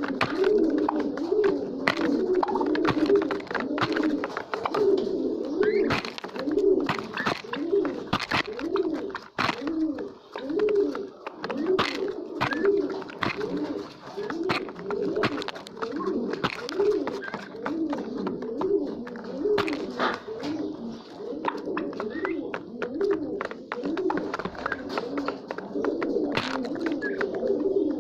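A flock of pigeons cooing continuously, many overlapping coos repeating without pause, with scattered sharp clicks and taps among them.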